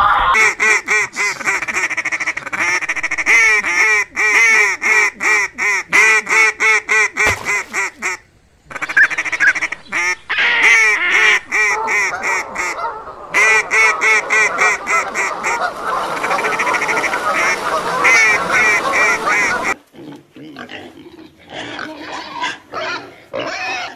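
A flock of mallard ducks quacking: fast runs of loud, overlapping quacks broken by a few short pauses. About twenty seconds in they give way to quieter grunting from a pen of piglets.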